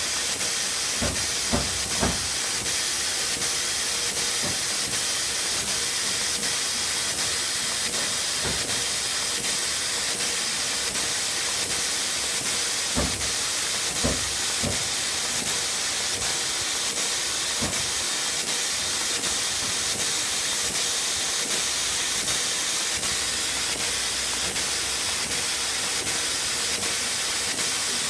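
Air valve on a light offset printing press (Direct Pink) hissing steadily as the press feeds paper, with faint regular ticks of the feed mechanism and a few louder knocks.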